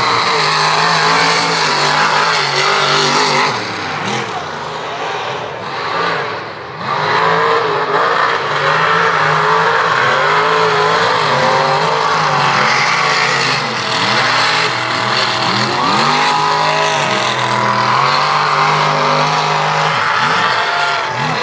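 Mega mud truck engine revving hard, with a brief dip in the revs about five seconds in, then loud, repeated rising and falling revs.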